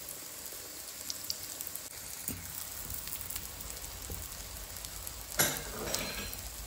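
Prawn omelettes shallow-frying in oil in a nonstick pan, sizzling steadily with fine crackles. A short louder noise comes about five and a half seconds in.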